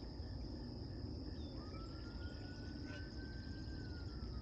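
Steady high-pitched insect chorus, crickets or similar, over a low outdoor rumble. A faint thin whine begins about a third of the way in, rises a little, holds, then slowly slides down in pitch.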